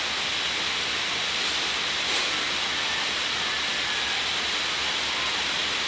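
Steady, even hiss with no speech: the recording's background noise.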